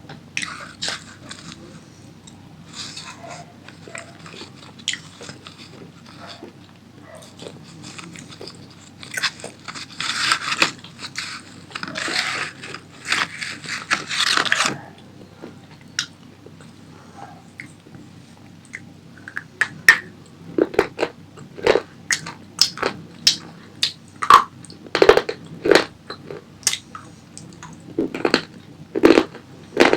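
Close-up biting and chewing of crunchy tomato pasta: dense crunching for the first half, then steady chewing with sharp wet mouth clicks about twice a second.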